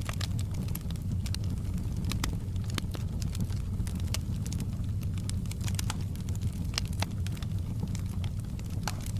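Wood fire crackling in a fireplace: irregular sharp snaps and pops over a steady low rumble of burning.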